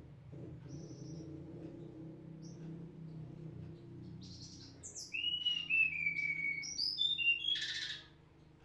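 Song of the tledekan gunung (its Indonesian bird-keepers' name): a few faint, scattered high chirps, then, about five seconds in, a louder run of whistled notes with a long, slowly falling whistle, ending around eight seconds. A steady low hum runs underneath.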